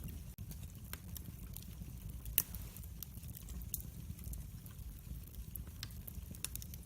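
Wood fire in a fireplace crackling: scattered sharp pops and snaps over a low steady rumble of the flames, with one louder pop about two and a half seconds in.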